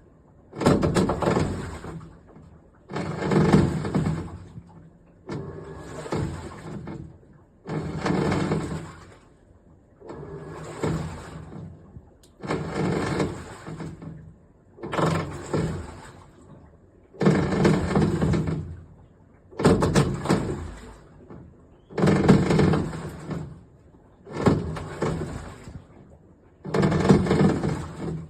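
Iris Ohyama IAW-T606-B top-loading washing machine in its wash cycle: the pulsator swirls the water in surges, reversing roughly every two and a half seconds, with short pauses between.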